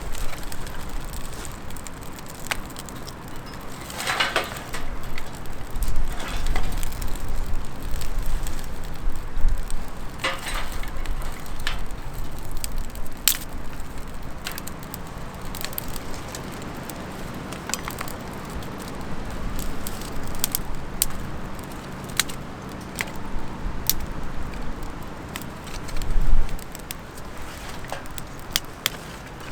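Wood campfire crackling, with scattered sharp pops throughout. Brief rustling or handling noises come about 4 and 10 seconds in, and a dull thump near the end.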